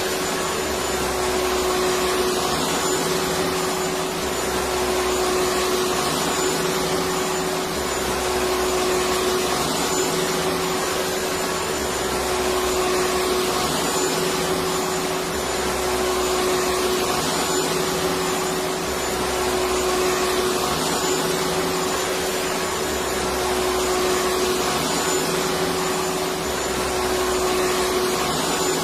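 Electric vacuum cleaner running steadily: a continuous motor whine over a rush of air, with the low hum rising and falling slowly and regularly.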